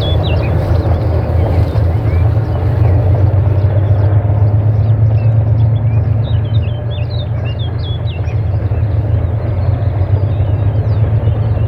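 3TE10M diesel locomotive's two-stroke opposed-piston 10D100 engines running, a steady deep drone, with birds chirping over it.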